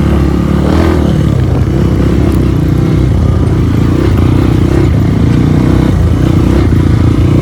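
Motorcycle engine running loud and steady, close up, at fairly even revs with small rises and dips.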